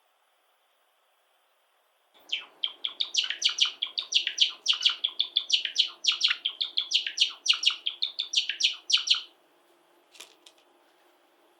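Java sparrow singing: a fast run of high chirps, clicks and twittering notes that starts suddenly about two seconds in and stops about nine seconds in, followed by a couple of faint ticks.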